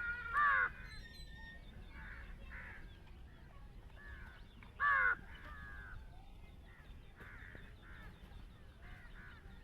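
Short, harsh animal calls: two loud ones about half a second in and about five seconds in, with fainter calls repeating between and after them.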